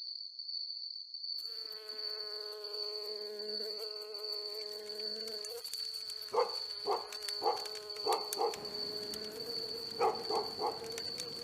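Insects: a steady high-pitched insect tone, joined about a second and a half in by a low insect buzz. Short repeated calls come in over them from about six seconds in.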